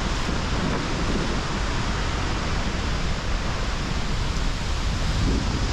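Waterfall close at hand: a loud, steady rush of falling water and spray, heavy as a downpour.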